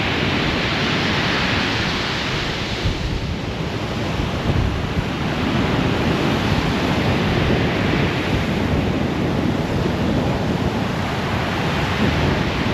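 Rough sea, whipped up by gale-force winds, breaking and washing on the shore in slow surges of hiss. Strong wind buffets the microphone with a low rumble throughout.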